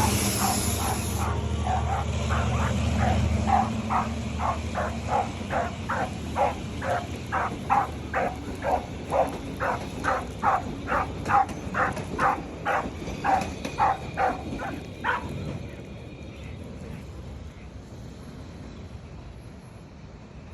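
A dog barks repeatedly at a passing train, about two barks a second for some fifteen seconds, then stops. A low train rumble fades away in the first few seconds beneath the barking.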